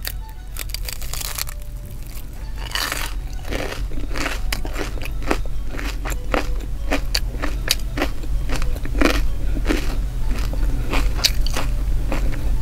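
Close-miked bite into a crispy deep-fried fried rice patty, followed by chewing with many quick, irregular crunches of the fried crust, over a steady low hum.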